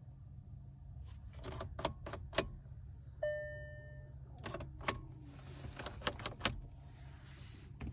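2014 VW Golf 7 in a no-start condition: a series of sharp clicks, a single electronic warning chime from the car about three seconds in, and two stretches of soft hiss.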